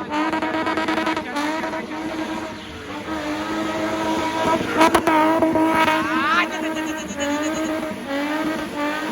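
Car engine held at high revs during a drifting display, its pitch sweeping up sharply a few times as it is revved harder, with some tyre squeal.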